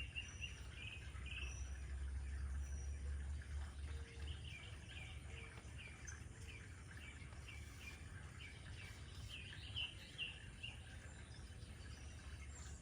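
Small birds chirping in quick runs of short, high notes over a steady low rumble.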